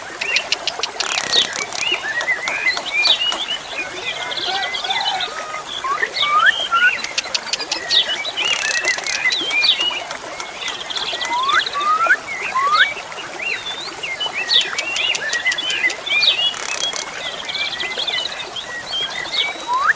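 Asian pied starling (jalak suren) singing a varied, busy song of chirps and rising whistles, broken several times by quick rattling runs of clicks.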